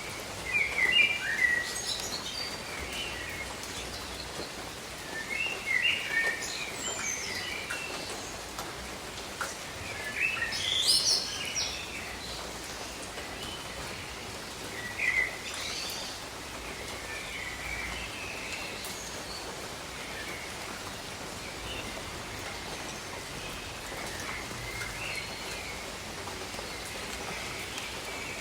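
Steady rain over a tropical forest, with birds calling in short chirping bursts, the loudest about a second in and again around ten seconds in, thinning out in the second half.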